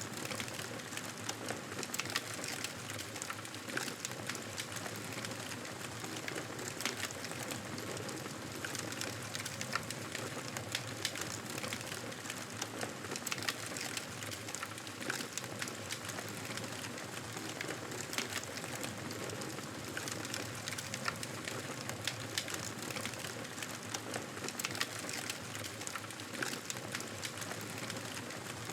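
Wood fire crackling steadily: a constant hiss dotted with many small sharp pops and snaps.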